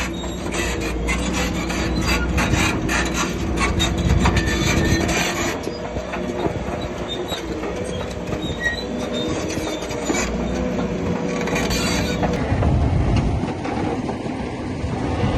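Bulldozer working, its engine running under steady load while its steel tracks clank and squeal, with dense clanking over the first five seconds or so.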